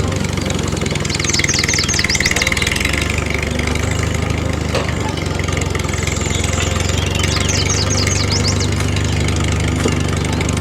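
Engine idling steadily at an even speed. Two short runs of quick high chirps come over it, about a second and a half in and again about seven and a half seconds in.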